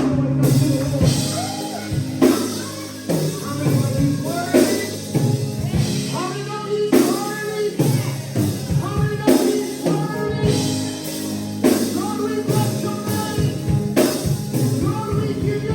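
Live church music: voices singing over a band, with drum kit hits and sustained low chords underneath.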